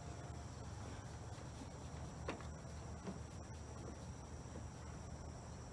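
Faint, steady chirring of crickets under a low background hum, with a single small click about two seconds in.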